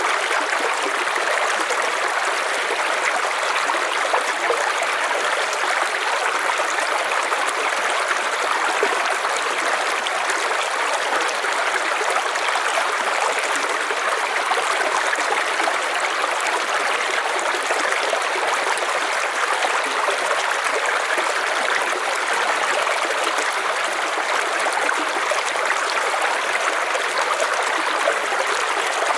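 River water flowing over stones, a steady rushing and gurgling that does not change.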